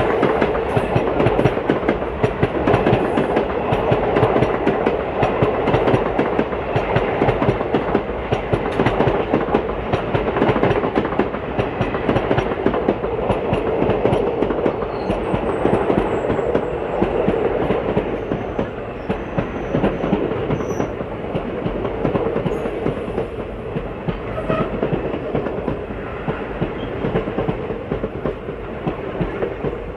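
ICF passenger coaches passing at speed close by: a steady rush of wheel-on-rail noise with continuous clickety-clack as the wheels cross the rail joints, easing slightly toward the end.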